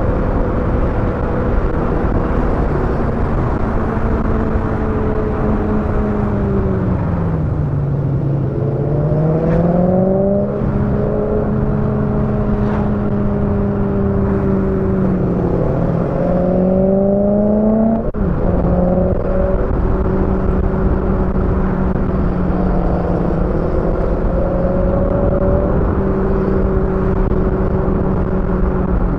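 BMW E92 M3's V8 engine under way, with tyre and road noise underneath. The engine note sags about seven seconds in and climbs back by ten seconds. It rises again and drops sharply at about eighteen seconds, as on a gear change, then holds steady. The recording is sped up with its pitch kept at the original.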